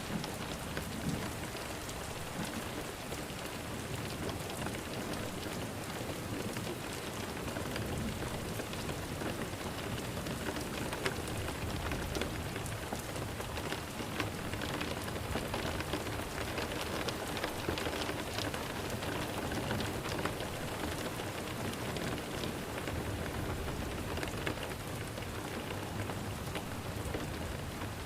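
Steady rain falling, with many individual drops audible in an even hiss.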